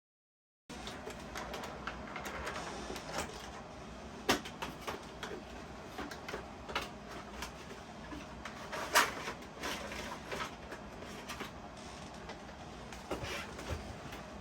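Rustling, scraping and small clicks of a Lionel boxcar being taken out of its box and handled, starting just under a second in, with a few sharper knocks, the loudest about nine seconds in.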